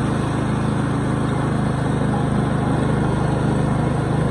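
Murray 14.5-horsepower riding mower engine running steadily.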